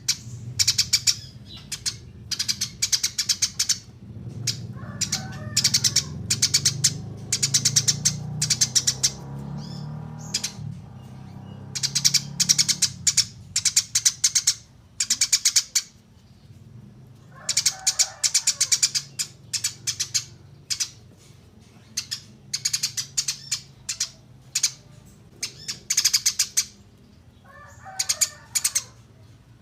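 Small songbirds singing: repeated bursts, about a second long, of very fast high-pitched chirps, with short pauses between them and a few lower rattling calls mixed in.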